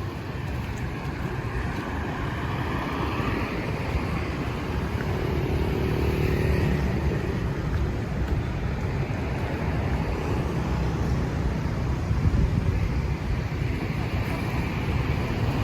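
Street traffic: a steady rumble of passing road vehicles, the level slowly building.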